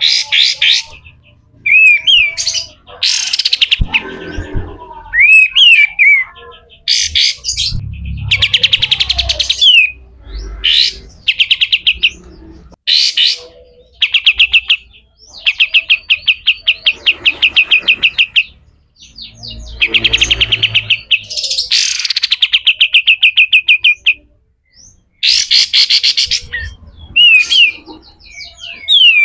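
Olive-winged bulbul (kapas tembak) singing loudly. Phrases of fast repeated slurred notes alternate with rough, rapid rattling trills (the harsh 'besetan' chatter), each lasting a second or two, with short pauses between.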